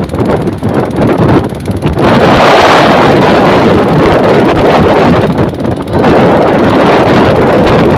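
Heavy wind buffeting the microphone on a boat under way through a rainstorm, a loud rushing noise that surges and dips a few times.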